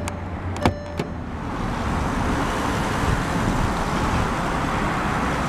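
A couple of sharp clicks of the hood release and latch, then the Volkswagen Phaeton's 6.0-litre W12 engine idling steadily, heard louder from about a second and a half in with the hood open.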